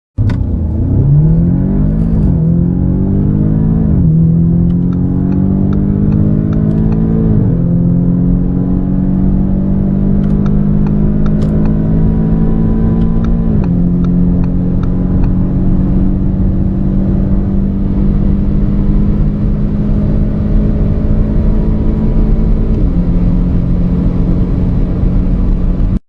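Turbocharged four-cylinder hatchback accelerating hard from a standstill at full throttle. The engine note climbs in pitch and drops at each of six quick upshifts, and each gear lasts longer than the last as speed builds.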